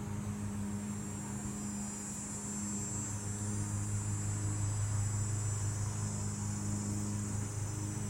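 A steady low hum with a faint high-pitched whine above it and no sudden sounds.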